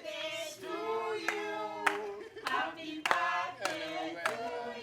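A group of people singing together while clapping hands in time, a clap roughly every 0.6 s.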